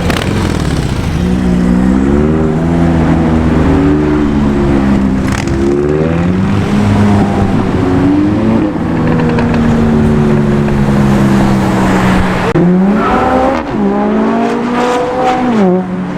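A performance car's engine accelerating hard, its revs climbing and dropping back through several gear changes, with a quick run of upshifts near the end.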